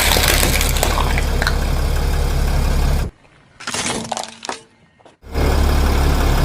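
Car tyre rolling over and crushing brittle objects: dense crunching and cracking over a low engine rumble. It cuts off suddenly about three seconds in, a short quieter crackle follows, and the crunching and rumble start again just past five seconds.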